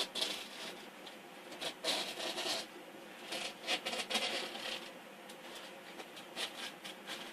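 A knife blade scraping along a screen-door frame as it cuts off the excess window-screen mesh, in short irregular scratchy strokes.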